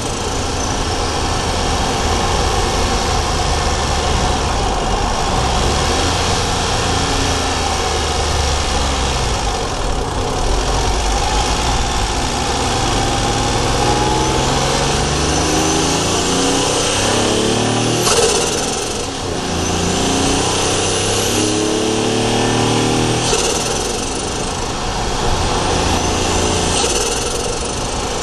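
Daihatsu Charade GTti's three-cylinder turbo engine under acceleration, heard from inside the engine bay: the engine note climbs and drops back several times as it pulls through the gears, with a high turbo whistle rising and falling with each pull.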